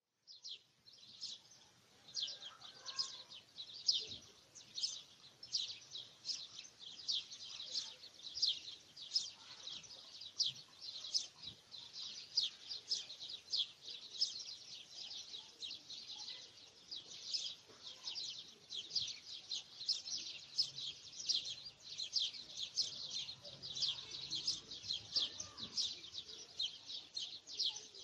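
Small birds chirping continuously: short high chirps, about two a second, repeating without a break.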